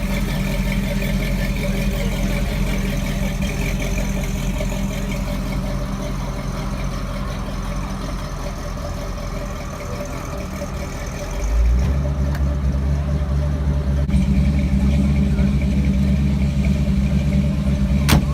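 A car engine running steadily. About eleven and a half seconds in, its low hum drops lower and gets louder. There is one sharp click near the end.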